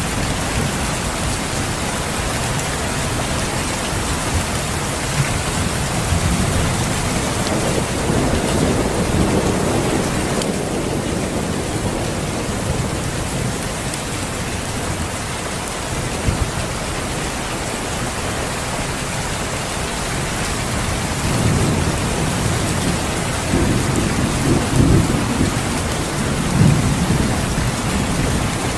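Steady rain with low rolls of thunder, one about a third of the way in and longer ones through the last third.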